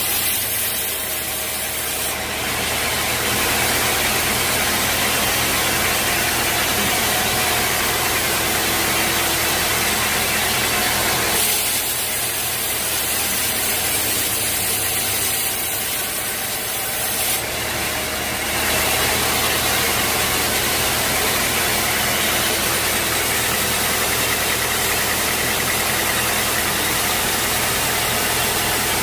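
Sawmill machinery running: a steady low machine hum under a loud, dense hiss. It eases off from about 11 to 17 seconds in, then comes back up to full level.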